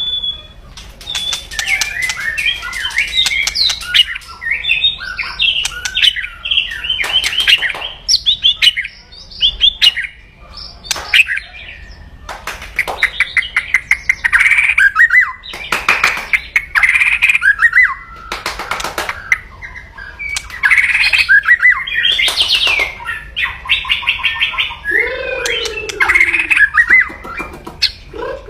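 White-rumped shama (murai batu) singing aggressively: loud, fast runs of harsh crackling, rattling notes ("kretekan") mixed with short whistles, with only brief pauses.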